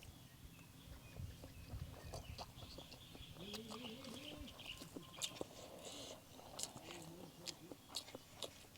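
Soft chewing and small mouth clicks of someone eating stir-fried instant noodles. A bird calls in the background in short rising-and-falling notes, once about three and a half seconds in and again about seven seconds in.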